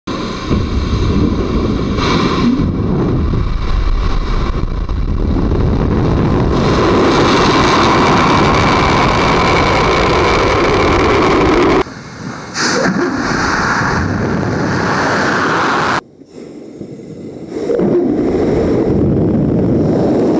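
Atlas V rocket lifting off on its RD-180 main engine and five solid rocket boosters: loud, continuous rocket noise, deep and rumbling, heard from cameras near the pad. The noise breaks off abruptly about twelve and sixteen seconds in, dropping and then building back up, as the sound of one camera shot gives way to the next.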